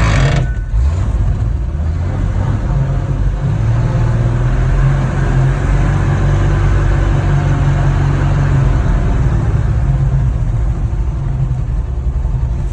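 Old Ford F-Series pickup's engine running steadily as the truck is driven, with a brief rush of noise at the very start.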